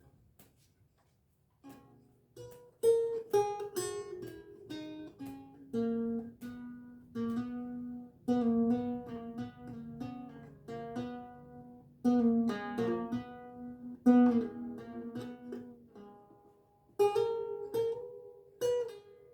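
Renaissance lute with gut strings, played as plucked single notes and chords. The playing starts about two seconds in and pauses briefly about sixteen seconds in before picking up again.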